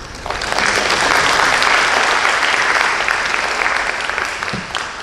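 Audience applauding at the end of a lecture, rising quickly about a quarter second in and tapering off near the end.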